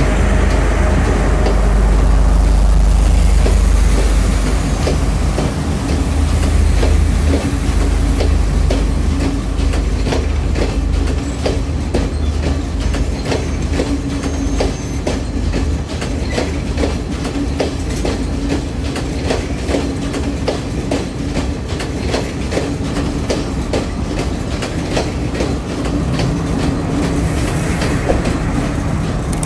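Class S14 diesel multiple unit passenger train passing slowly. The power car's diesel engine drones at the start, then the carriage wheels click over the rail joints in a steady rhythm, and the engine tone of the rear power car comes back in near the end.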